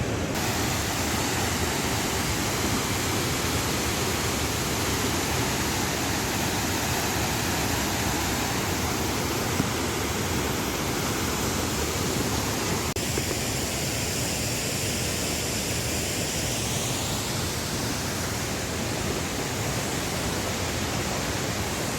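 Waterfall rushing: a steady, even roar of falling water that does not let up.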